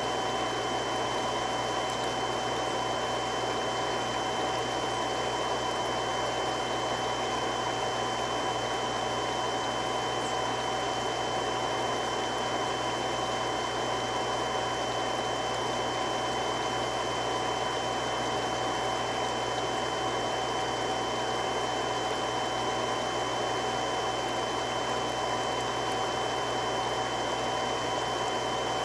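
Three-stage irrigation water pump running steadily: an even rushing noise with a few constant whining tones over it, unchanging throughout.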